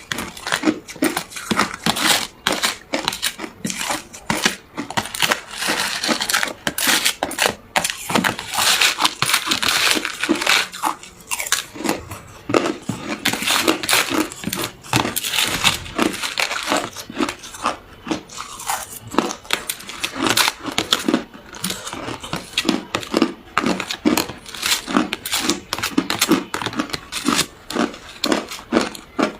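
A person biting and chewing hard ice close to the microphone: continuous loud crunching and crackling of ice breaking between the teeth, in a steady chewing rhythm.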